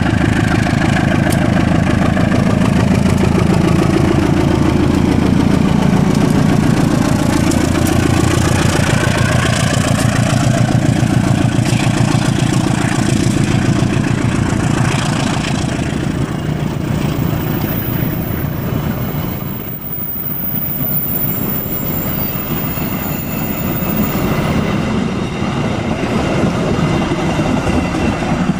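A diesel-electric locomotive passes close by, its engine loud and falling in pitch as it goes past. Then the passenger coaches rumble and clack over the rail joints as the train runs on and away.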